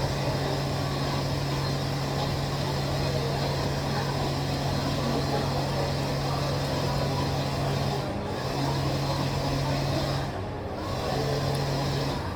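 Steady, loud background noise with a constant low hum, which drops out briefly twice near the end.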